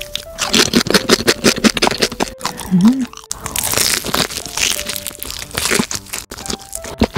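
Close-up crunching and chewing of crispy fried chicken batter, a dense run of sharp, irregular crackles as it is bitten and chewed.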